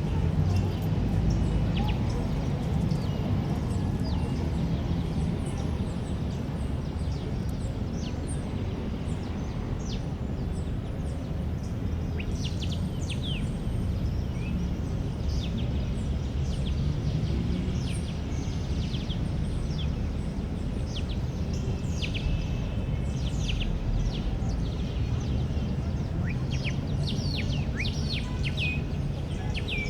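Outdoor park ambience: a steady low background rumble with small birds chirping, their short high calls coming thicker in the second half.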